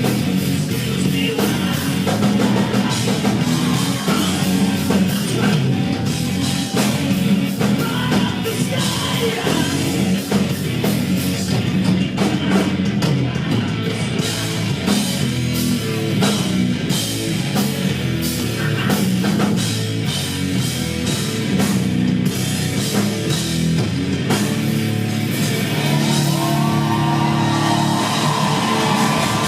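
Rock band playing live at full volume: distorted guitars, bass and a drum kit. Near the end the chords are held.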